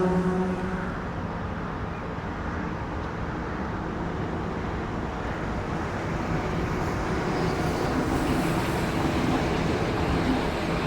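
A train running through the station, a steady rumble and rush that grows slightly louder toward the end.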